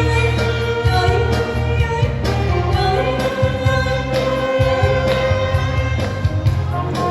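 A voice singing over a backing track with a steady bass beat, holding long notes.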